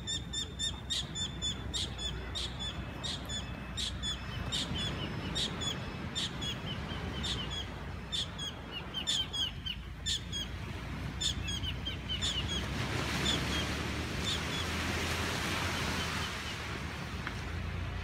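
A bird calling with short, sharp repeated chirps, two or three a second, that space out and stop about two thirds of the way through. Under them is a steady rush of wind and surf that swells in the later part.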